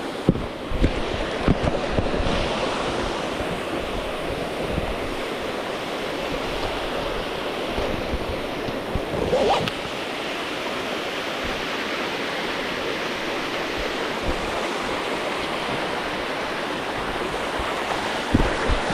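Steady rush of water from Buntong Waterfall's falls and stream, with a few low thumps near the start and again near the end.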